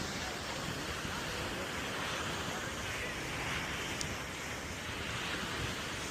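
Ocean surf washing onto the beach in a steady rush, with some wind on the microphone.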